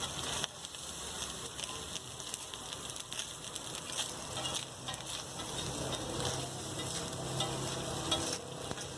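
Rice sizzling as it is tipped onto a hot flat street-food griddle and stirred in, with a steady frying hiss and many short clicks and scrapes from a metal spatula.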